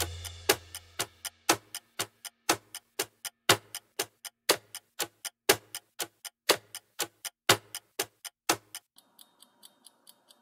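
Ticking-clock sound effect marking a quiz countdown timer: quick, even ticks that grow fainter near the end.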